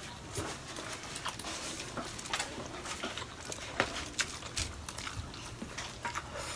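Close-up eating sounds: chewing with irregular wet smacks and sharp clicks scattered throughout.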